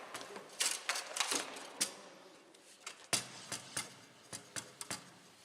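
Foosball table in play: sharp, irregular clacks of the ball striking the players' figures and the table walls, about a dozen in all, with a pause in the middle.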